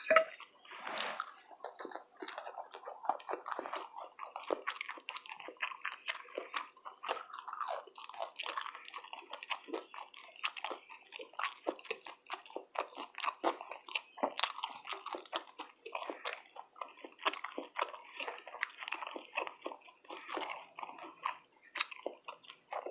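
A person chewing food close to the microphone in a mukbang of fried fish, grits and toast: a continuous run of small mouth clicks and smacks with no talking.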